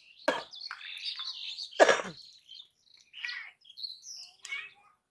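Small birds chirping repeatedly, with two loud, sudden sounds about a quarter second and two seconds in.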